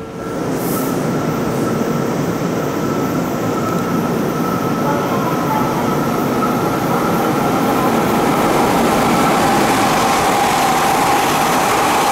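Odakyu 5000 series electric train approaching and running past close by, a steady rail rumble that grows louder, with a thin high whine over it.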